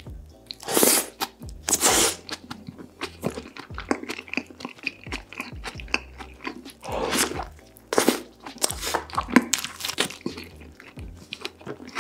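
Close-miked crunching bites and chewing of a burger coated in cheese sauce, with loud crunches about a second and two seconds in and again around seven and eight seconds in. Background music plays underneath.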